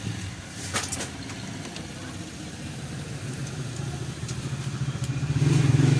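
Low, steady engine rumble that grows louder about five seconds in, with a sharp click about a second in.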